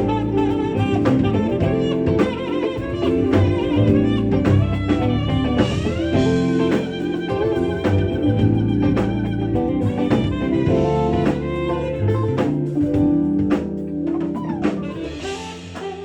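Live jazz band playing an instrumental: a drum kit keeps a steady beat under bass and melody instruments, with a rising slide in the melody about six seconds in.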